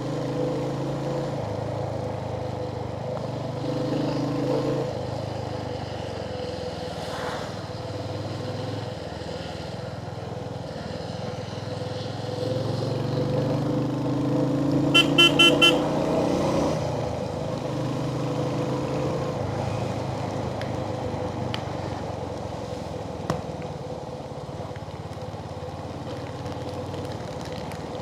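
Royal Enfield Hunter 350's single-cylinder engine running as the motorcycle is ridden. A horn beeps four quick times about halfway through.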